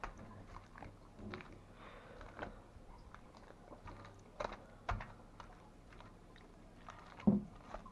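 Homemade slime being pulled and peeled off its container by hand: scattered soft, sticky clicks and smacks, with a few louder ones about halfway and near the end.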